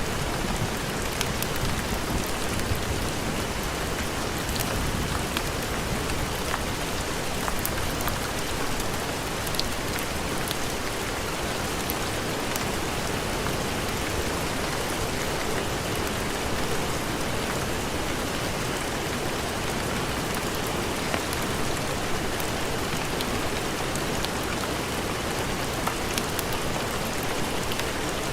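Steady heavy rain: a dense, even hiss with scattered small ticks of drops.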